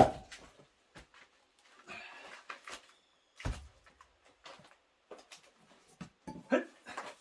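Axe chopping rounds of mountain cherry firewood: a sharp crack of the axe splitting the wood at the very start, a second chop about three and a half seconds in, and lighter knocks of wood pieces between.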